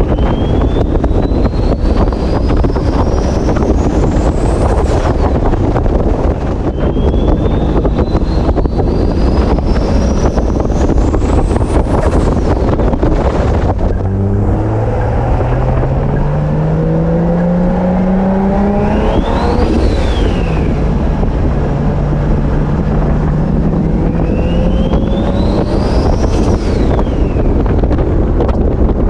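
Big-turbo Toyota Supra engine pulling hard under boost, heard with heavy wind noise: the turbo whistle climbs steeply to a very high pitch twice and cuts off suddenly each time the throttle closes. Later the engine note rises more gently through two more pulls, the turbo whine climbing and then falling away with each.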